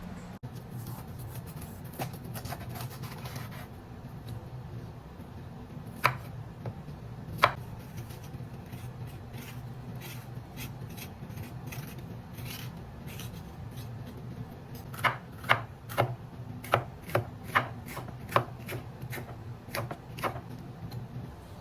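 Knife chopping on a cutting board: a few scattered single cuts, then a quicker run of about ten strokes past the middle, over a steady low hum.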